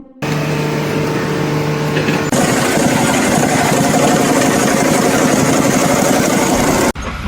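An engine running, with a steady hum at first; about two seconds in it turns louder and much noisier, and it cuts off suddenly near the end.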